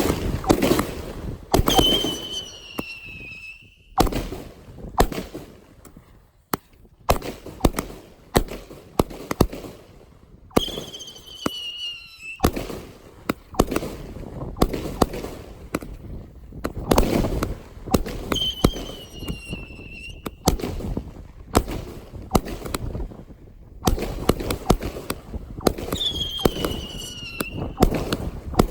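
Fireworks going off in a string of bangs and crackles. About every eight seconds a whistle falls in pitch, four times in all.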